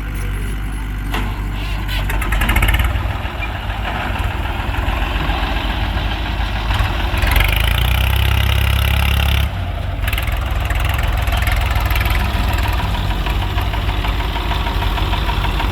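Heavy diesel engine running steadily with a low, even chug, working harder for a couple of seconds around the middle and easing off sharply about nine and a half seconds in.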